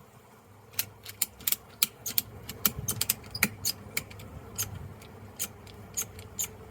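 Ratchet strap being tightened around the beehive boxes: an irregular series of sharp clicks, only snug enough to stop the hive coming apart.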